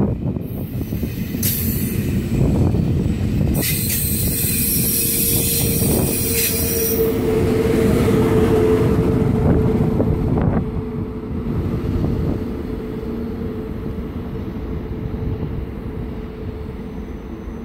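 ICE high-speed train rolling along the platform, its wheels squealing in a high screech for a few seconds, with a steady whine under the rumble of the cars. The noise fades after about ten seconds as the train moves away.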